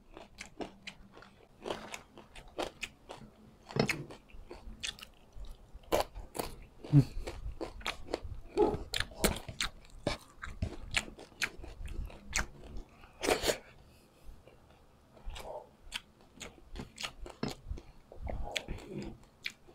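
Close-up mouth sounds of chewing crispy fried dried anchovies (dilis): irregular crisp crunches and crackles with short pauses, one louder crunch about two thirds of the way through.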